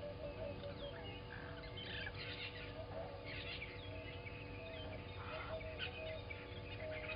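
Several birds calling together in a morning chorus: overlapping chirps and whistles, with one bird repeating a short low note about four times a second.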